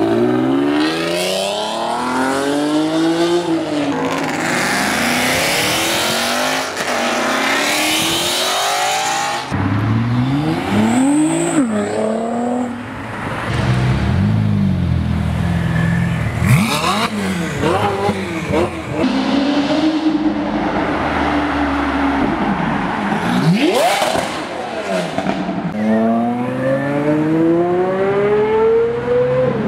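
Car engines revving and accelerating, the engine note climbing and dropping again and again. The sound changes abruptly about nine and a half seconds in, as from one car to another.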